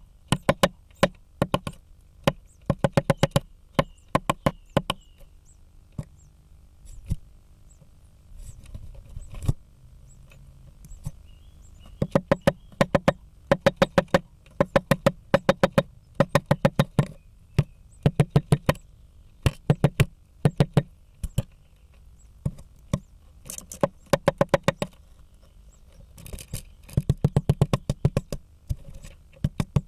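Great spotted woodpecker hammering at a blue tit nest, its bill striking wood in rapid runs of sharp knocks with short pauses between them. The pecking thins out for a few seconds near the middle, then resumes in quick bursts.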